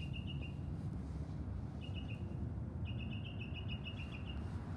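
A small bird sings three runs of rapid, evenly repeated chirps, the last one the longest, over a steady low rumble.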